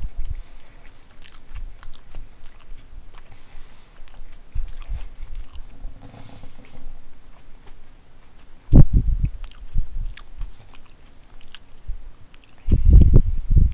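Close-miked chewing and biting of a sub sandwich, with wet mouth clicks and smacks throughout. Two louder, low thuds come about nine seconds in and again near the end.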